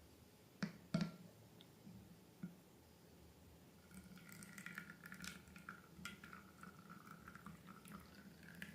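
A few light clicks, then from about halfway through a faint liquid pouring and dripping into a container, with a thin tone that rises slightly near the end as it fills.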